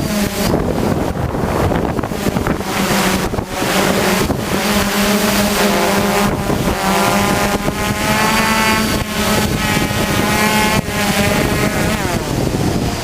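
Hexacopter's electric motors and propellers droning at a steady pitch, the whine shifting up and down partway through, under heavy wind noise on the microphone.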